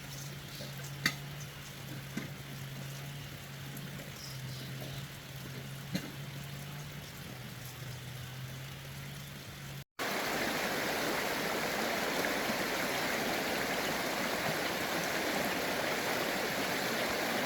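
A steady low hum with a few faint clicks. About ten seconds in it cuts off sharply and gives way to the steady, louder rush of running water.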